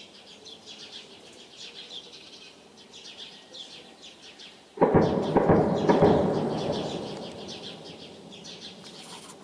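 Birds chirping, then about five seconds in a single loud explosion booms suddenly and rolls away as a rumble over two to three seconds, the sound of shelling during armed clashes.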